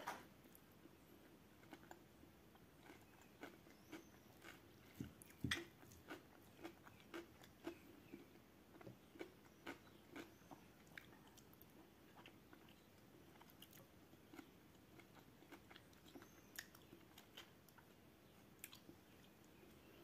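Quiet chewing of a mouthful of food: soft, irregular mouth clicks and crunches, with a louder knock about five and a half seconds in.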